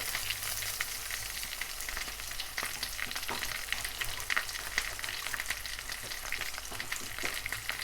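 Flour-coated chicken breast frying in a frying pan: a steady sizzle with frequent small crackles and pops.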